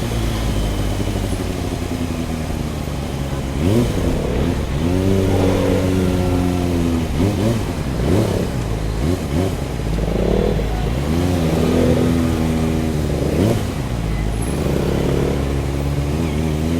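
Motorcycle engines running at low speed, revving up sharply several times, each rev rising quickly in pitch and dropping back over a steady low engine hum.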